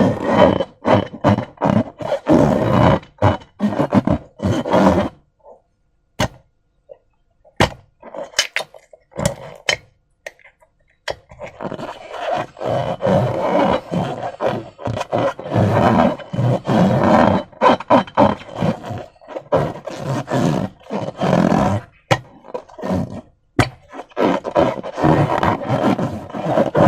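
Slime squelching and crackling as it is squeezed and worked by hand, in long runs of dense wet clicks with a sparser stretch of a few isolated clicks in between.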